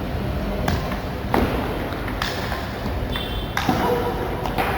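Table tennis ball being played in a rally, about five sharp clicks of the ball off the bats and table, a second or less apart.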